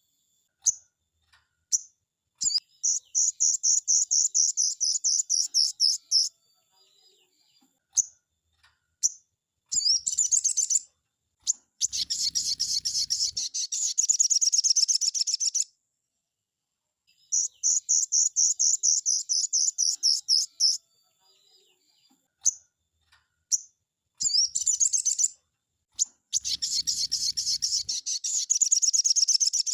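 Sogon songbird singing: rapid, high chattering trills in bouts of a few seconds, broken by short single call notes and brief pauses.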